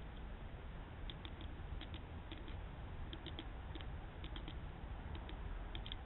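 Small birds, tits and sparrows, at a seed-bell feeder: irregular short, faint high ticks, a few each second, over the steady hiss of a trail camera's microphone.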